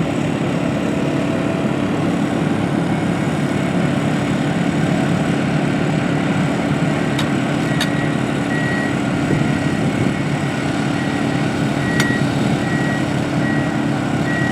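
Concrete mixer truck's engine running steadily while it moves slowly. A reversing beeper starts sounding over it about halfway through and keeps beeping, with a few sharp clicks along the way.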